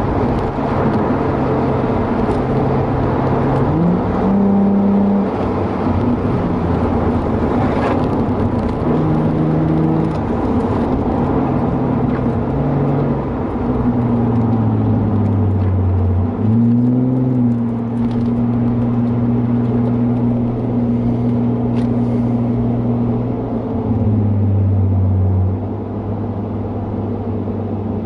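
Nissan 350Z's 3.5-litre V6 with an aftermarket catback exhaust, heard from inside the cabin while driving on track. The engine note steps and glides up and down with throttle, rising sharply about 16 seconds in and dropping near the end, over steady road and wind noise.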